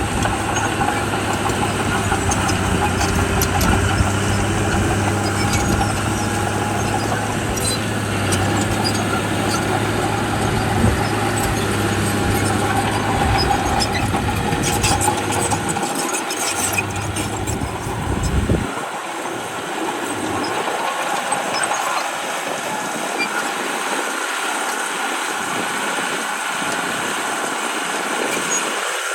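Heavy diesel earthmoving machinery running steadily, with scattered clicks and clanks. The deep engine rumble cuts off abruptly about two-thirds of the way in, leaving a lighter mechanical noise.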